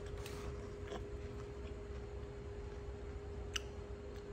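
A few faint crunches from chewing a bite of dry, crunchy butter toast rusk, over a steady low hum.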